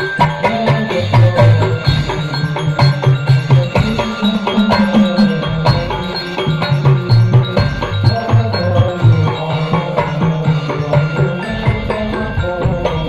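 Hadrah ensemble playing an instrumental passage: frame drums and kendang beat a fast, dense rhythm with deep pitched drum tones, while a melody line sounds over them.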